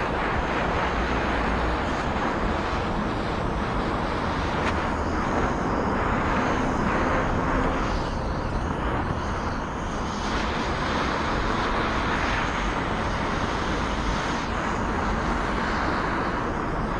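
A power tool running steadily as it cuts into a wooden log, a dense grinding noise without a break.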